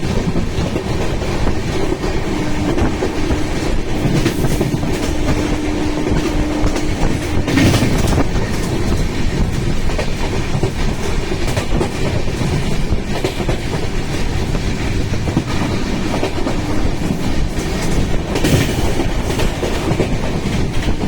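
Continuous loud mechanical rumble and rattle, with a steady low hum for a few seconds near the start and brief sharper noises about eight and eighteen seconds in.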